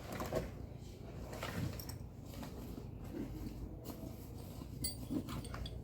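Tools and a tool bag being handled: scattered small clicks and rustles of metal tools being picked up and set down, over a low steady hum.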